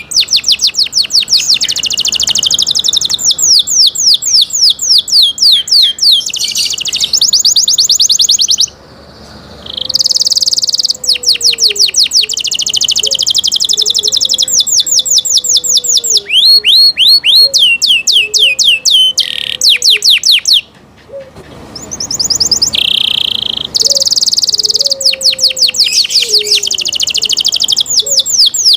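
Canary singing loudly in fast rolling trills of rapidly repeated notes, switching from one trill to the next every few seconds, with two short breaks about nine and twenty-one seconds in.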